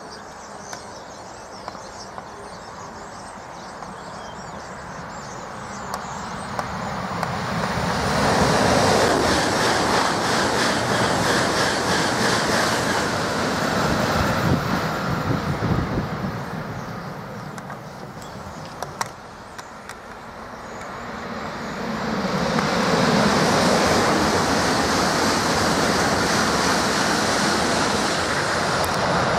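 Southeastern Class 395 Javelin electric trains passing at speed on High Speed 1, twice: a rush of noise that builds from about 7 s in and fades about 18 s in, then builds again from about 21 s in.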